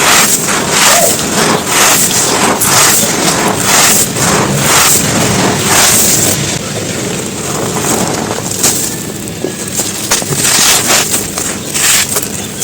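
Dry crumbly chunks of earth or cement being crushed and crumbled, a dense run of gritty crunches that thins to sparser crackles and a few sharp snaps about halfway through.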